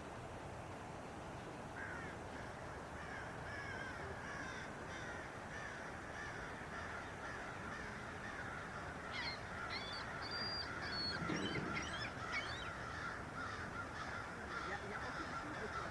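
Birds calling over a steady background hiss: many short chirps and calls, growing into a busy flurry about nine seconds in.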